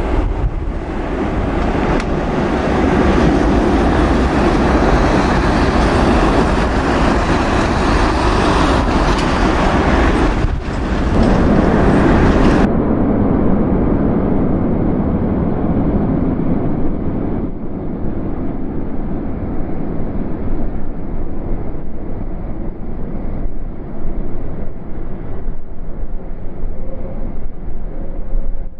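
Boeing 747 jet engines running loud and steady for the whole stretch, heaviest over the first twelve seconds or so, with gusty crosswind on the microphone.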